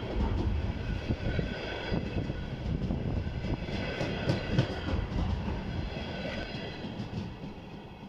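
Container flatcars of a freight train rolling past close by: a steady rumble of wheels on rails with clattering knocks and a faint high squeal. It fades near the end as the last wagon goes by.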